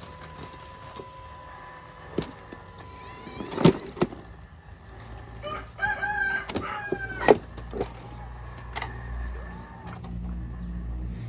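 Several sharp knocks, and about six seconds in a pitched animal call with a falling end, over a low steady rumble.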